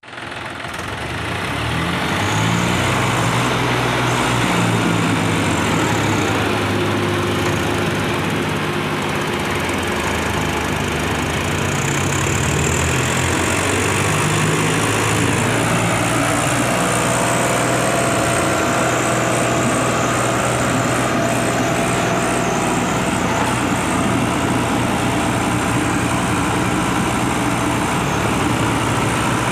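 Diesel tractor engines of a John Deere 5050 D and a Swaraj 744 XT running hard under load, pulling against each other in a tug-of-war. The engine sound fades in over the first two seconds, then holds steady, its pitch shifting a little now and then.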